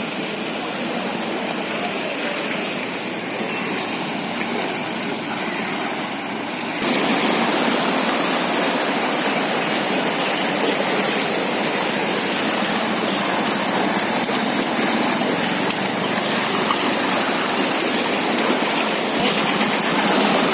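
Floodwater rushing and splashing as a steady hiss, which jumps louder and brighter about seven seconds in.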